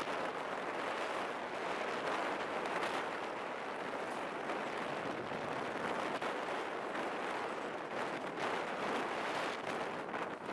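Passenger train running at speed, heard from an open coach doorway: a steady rush of wheel-and-rail running noise mixed with wind across the microphone.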